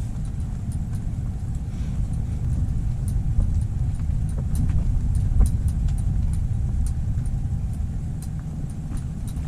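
Strong wind buffeting the microphone, a steady low rumble, with faint scattered ticks over it.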